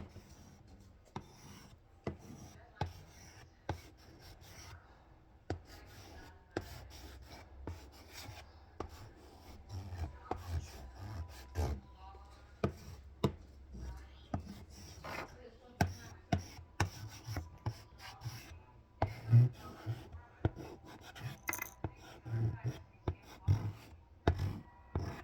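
Chalk scratching and tapping on a small toy chalkboard as words are written, in many short, irregular strokes.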